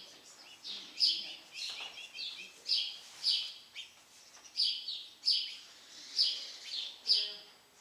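A small bird chirping over and over, a short high chirp roughly every half second to second, some chirps coming in quick pairs.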